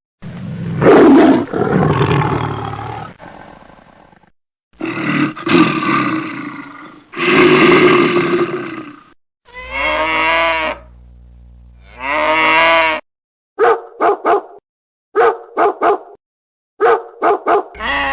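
Several different animal calls played one after another: a long, rough call, then two separate calls, then two longer wavering calls, and near the end a run of short calls in quick pairs.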